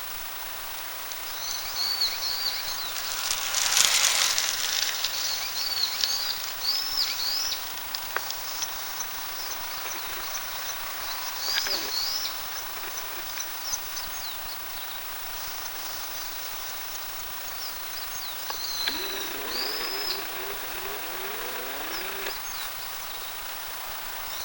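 Eastern buzzard giving its alarm call: short, high, hooked notes repeated in clusters with pauses between, a sign that the bird is alarmed by a person near its nest. A brief rush of noise comes about four seconds in.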